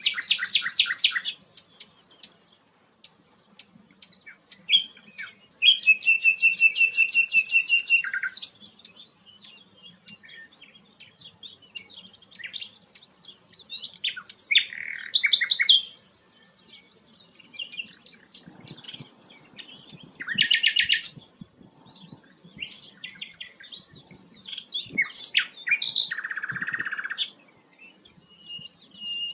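Sikatan londo flycatcher singing a varied song of short high chirps and whistles, broken by fast rattling trills, one at the very start and a longer one about six seconds in, and a buzzy note near the end.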